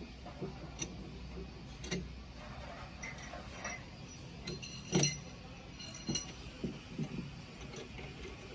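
Metal tools and parts clinking and tapping in irregular light clicks, with one louder metallic clank about five seconds in that rings briefly.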